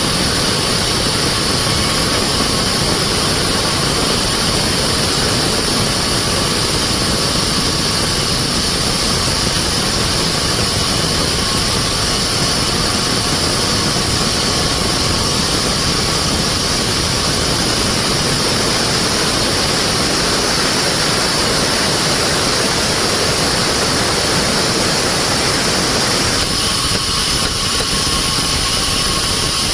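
Sawmill machinery running steadily, an engine-driven saw. Its tone changes near the end.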